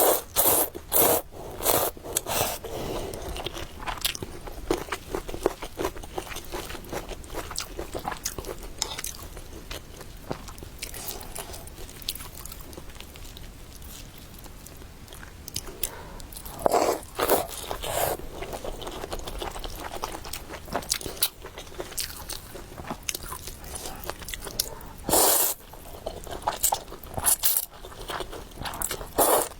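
Close-miked eating sounds of a person eating noodles: steady wet chewing and biting, with a few louder clusters of sharp bites or slurps near the start, about halfway through and near the end.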